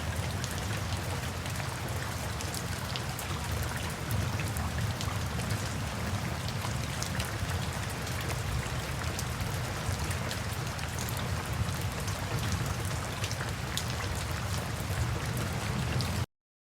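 Steady rain falling on a surface, a dense patter with many separate drop ticks over a low rumble. It cuts off abruptly a little before the end.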